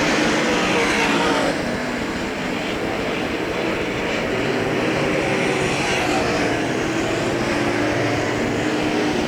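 V8 engines of UMP dirt modified race cars running at speed in hot laps. The sound is loud at first and drops off about a second and a half in, as a car moves away; other engines carry on further off.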